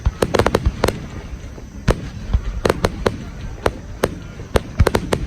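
Fireworks bursting: an irregular string of sharp bangs, more than a dozen, some coming in quick clusters of two or three.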